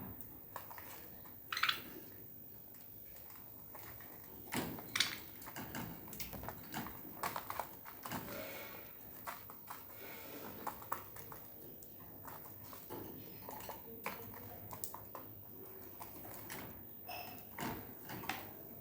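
Budgerigars tapping and scratching with their beaks and feet, a scatter of light irregular clicks, with a few brief high chirps.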